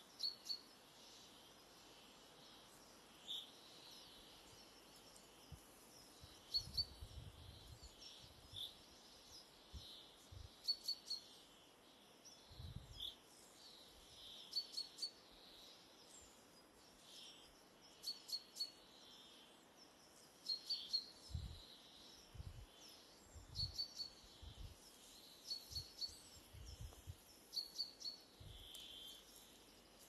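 Small forest birds calling: short high chirps, often in quick groups of two or three, repeating throughout over a faint steady hiss. Now and then there are low dull thumps.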